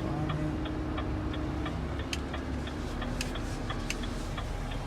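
Turn-signal indicator ticking in a truck cab, an even run of clicks about three a second, over the low hum of the engine; the indicator is on for a right turn.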